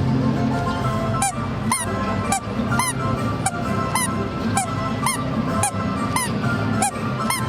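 Background music with short, squeaky honking notes repeating about twice a second over steady low accompaniment.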